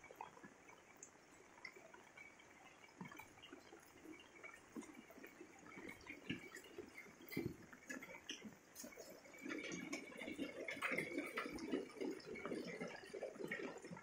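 Light rain dripping and pattering in faint, irregular small taps, growing denser and louder for a few seconds from about ten seconds in.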